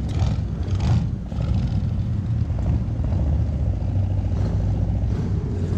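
Car engine running at low revs, a steady low rumble.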